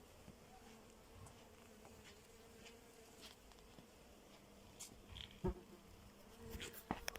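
Faint steady buzzing of a flying insect, with a few sharp clicks near the end.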